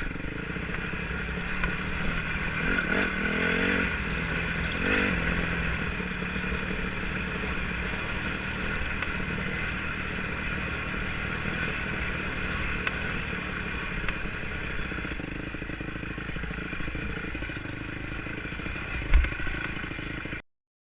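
Honda 250 enduro motorcycle engine running under way, with the revs climbing briefly a few seconds in, over a constant rattle and clatter from the bike on rough ground. A sharp thump shortly before the sound cuts off.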